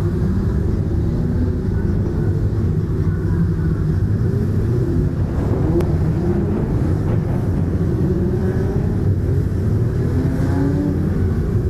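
Several BMW E30 engines running together, revs rising and falling as cars pull away.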